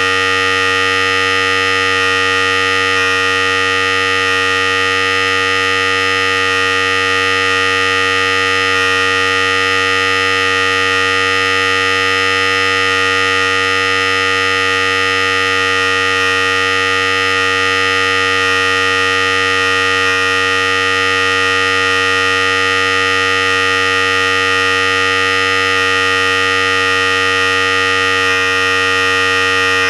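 Philips Series 5000 hair clipper running steadily: a continuous electric buzz made of a low hum and a high whine, with no change in pitch or level.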